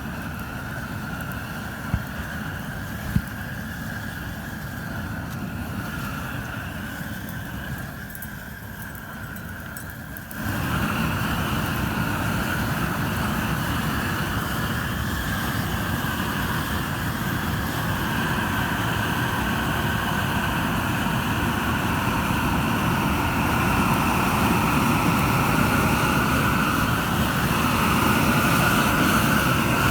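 Propane burners of a tractor-mounted burner attachment running with a steady roar, two sharp clicks about 2 and 3 seconds in. About ten seconds in it jumps suddenly louder as more gas or more burners come on, then keeps slowly growing louder.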